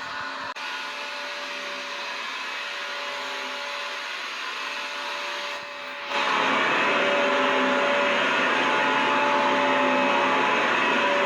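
Vacuum cleaner motor running steadily: a rushing noise with a few held tones. About six seconds in it suddenly gets louder and fuller.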